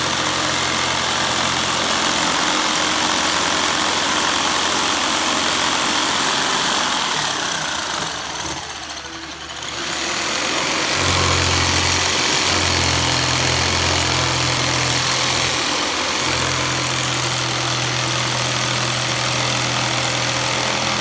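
Power tool cutting a Lexan polycarbonate window sheet to size: a loud, steady mechanical noise that dips briefly near the middle, after which a steady low hum joins in.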